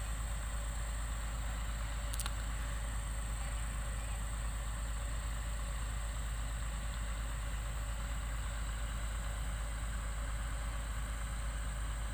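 Hitachi hydraulic excavator's diesel engine running steadily at a low, even speed, with a strong low rumble.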